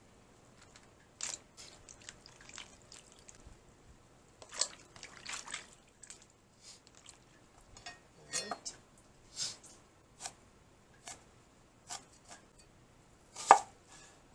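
Scattered light clicks, taps and drips of wild mushrooms being cleaned by hand in a bowl with water, with a sharper knock near the end.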